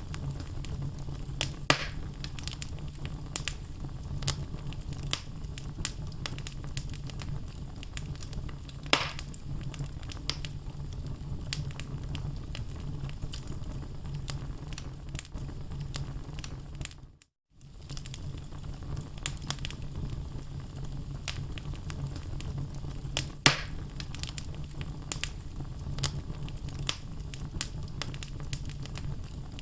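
Wood fire burning in a fireplace: a steady low rumble of flames with logs crackling throughout and a few louder pops. The sound drops out briefly a little past halfway, then resumes.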